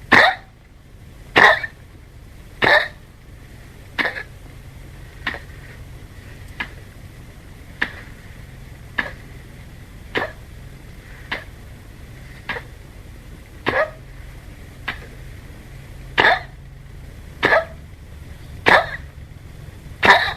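A 15-year-old Chihuahua coughing from kennel cough: a short cough about every 1.2 seconds, seventeen in a row, weaker in the middle of the run and stronger again near the end.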